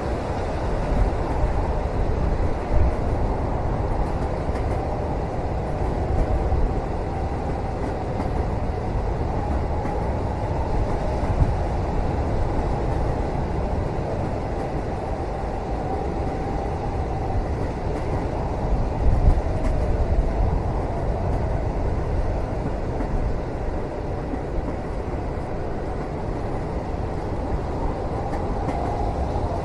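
Steady low rumble of a moving train heard from inside a passenger cabin, with a few brief louder knocks from the running gear.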